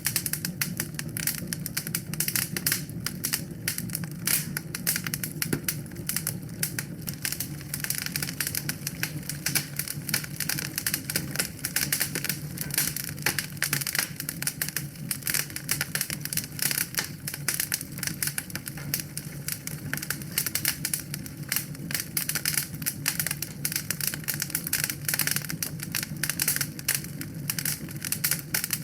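Wood fire burning in a fireplace, crackling with dense, irregular pops and snaps over a low steady rumble of the flames.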